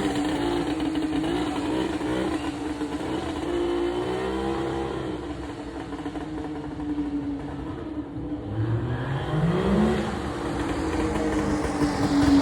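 Classic car engines running in the street, with one engine revving up about nine seconds in, its pitch rising.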